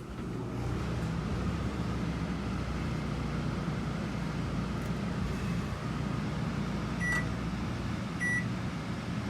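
RV generator running steadily under load, its hum swelling about half a second in as the load comes on. Two short electronic beeps sound about seven and eight seconds in, from the microwave's keypad being set.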